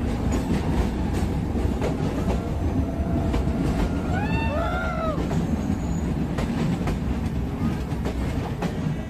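Meter-gauge heritage passenger train running along the track, a steady low rumble with scattered clicks from the wheels. A brief squeal rises and falls about four seconds in.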